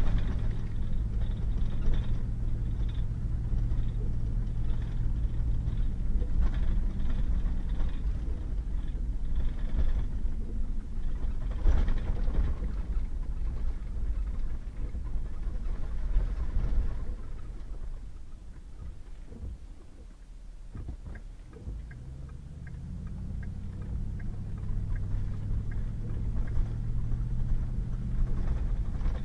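Pickup truck engine and tyre rumble on a rough gravel road, with scattered knocks from the road surface. About two-thirds of the way through the engine eases off and goes quieter, then picks up again with a rising engine tone as the truck accelerates.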